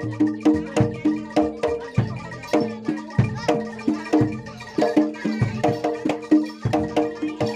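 Javanese gamelan music for a kuda lumping dance: pitched metal percussion struck in quick repeating patterns over hand drums, played live.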